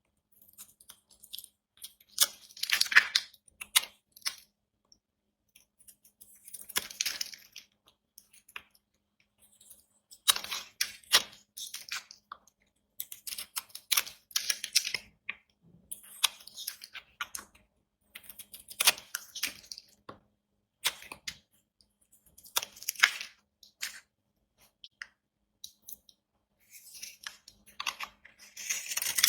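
A knife cutting through dry bar soap: crisp crackling cuts in short bursts every couple of seconds, with silent pauses between.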